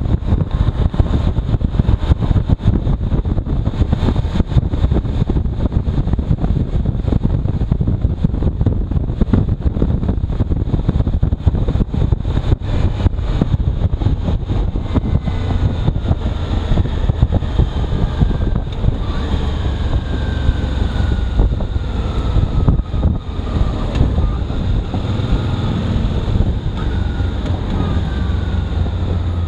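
Heavy wind buffeting on the microphone of a moving motorcycle, with the engine and road noise running underneath. A few faint falling whines come through in the second half.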